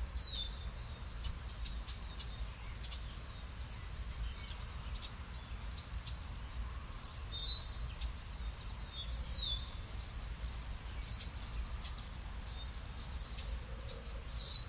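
Birds chirping: short, sharply falling calls come now and then, several close together about halfway through and again near the end, over a steady low rumble.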